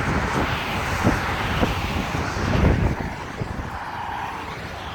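Road traffic: vehicle engine and tyre rumble that swells to a peak about two and a half seconds in, then drops away.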